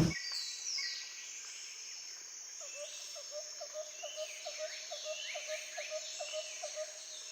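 Fairly quiet bush ambience: several birds calling over a steady high insect drone, with a rapid run of short repeated notes, about four a second, starting about two and a half seconds in.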